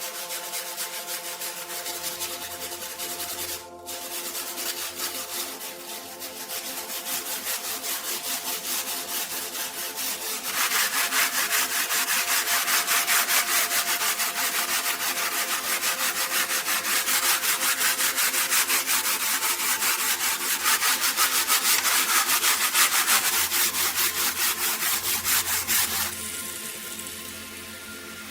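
Hand sanding: quick, even back-and-forth rubbing strokes, growing louder and harsher about ten seconds in and easing off near the end.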